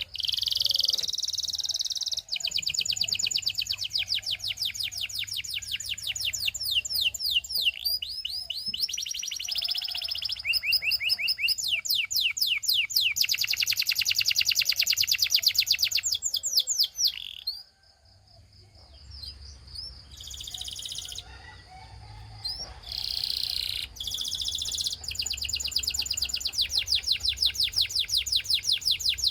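Canary singing long, rolling trills of rapid repeated high notes, some phrases made of quick downward-sweeping notes, changing from one tour to the next. The song breaks off briefly about two-thirds through, then resumes.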